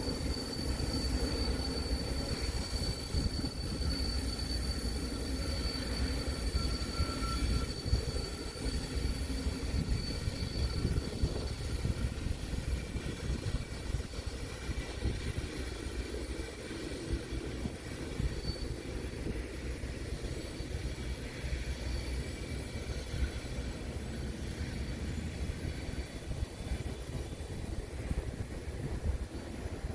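Freight train rolling past on steel rails with a steady low rumble. Its wheels squeal in thin high tones through the first third, which then fade, and the rumble slowly eases.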